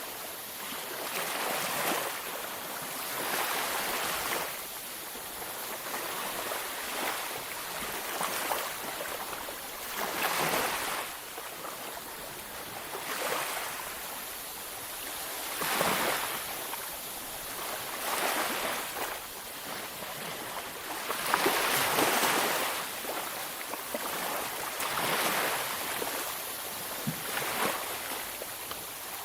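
Ocean waves breaking on a beach, a steady wash of surf that swells and recedes every few seconds, with a bigger wave about three-quarters of the way through.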